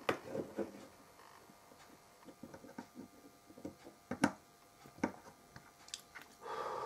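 Faint, sparse clicks and small taps of a soldering iron and tinned copper wire being worked against a potentiometer body on a circuit board, with the sharpest clicks about four and five seconds in.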